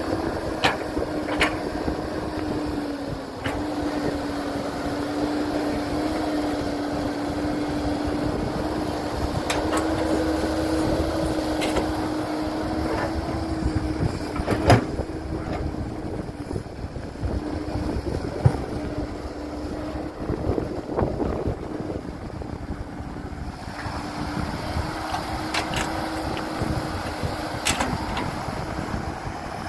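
Heavy construction machinery with its diesel engine running in a steady drone, with scattered sharp knocks and clanks, the loudest about fifteen seconds in.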